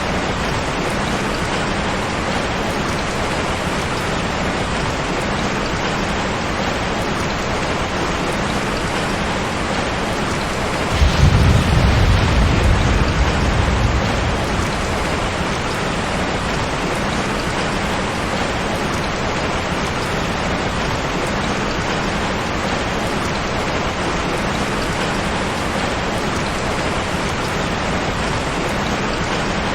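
Steady rain falling, with a sudden low rumble of thunder about eleven seconds in that fades away over about three seconds.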